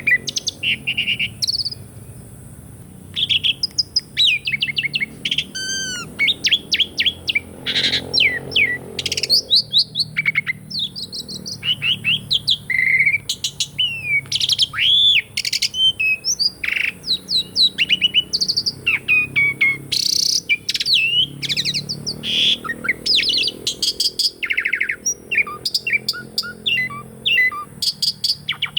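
Asian pied starling (jalak suren) singing a long, varied song of chirps, whistles, pitch glides and rapid clicking notes, with a short lull a couple of seconds in.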